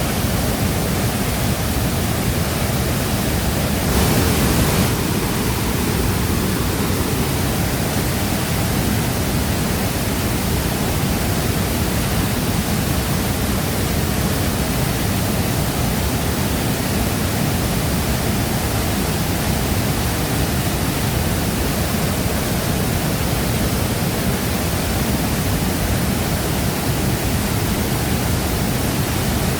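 Shifen Waterfall's falling water in a steady, dense roar, briefly louder for about a second around four seconds in.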